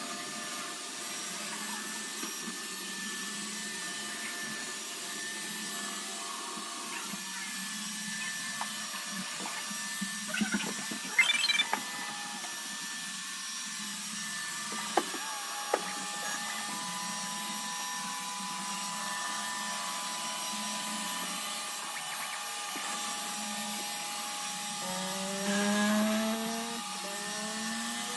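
iRobot Roomba robot vacuum running with a steady whir. A cluster of knocks and clatter comes about ten seconds in, and two sharp knocks follow a few seconds later. Near the end, whines sweep upward in pitch.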